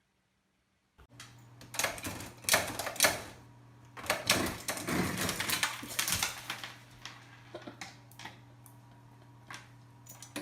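A rapid, irregular run of clicks and clatters, loudest in the first half and sparser later, over a steady low hum.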